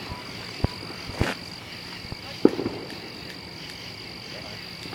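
Steady high-pitched trilling of night insects, with a few sharp clicks and knocks, the loudest about two and a half seconds in.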